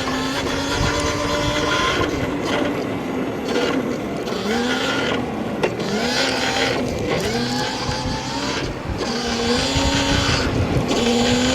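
Stomp Haywire electric dirt bike's motor whining, its pitch rising and levelling off about six times as the throttle is rolled on again and again, over a rush of wind noise on the helmet-cam microphone.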